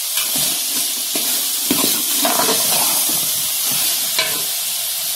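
Chicken keema and green peas sizzling in oil in a pot while a spoon stirs and scrapes through them, with two sharper knocks of the spoon, about a second and a half in and near the end.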